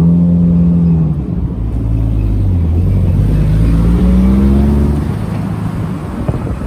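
Toyota Verossa VR25's 1JZ-GTE turbocharged straight-six running through a GP Sports muffler. The engine note holds steady, dips, then rises as the car accelerates around the middle, and eases off near the end.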